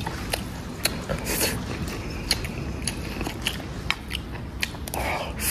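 Someone eating close to the microphone: chewing and biting, with scattered sharp clicks, over a steady low rumble.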